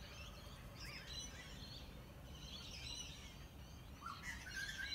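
Birds chirping and calling over a steady low rumble of outdoor background noise.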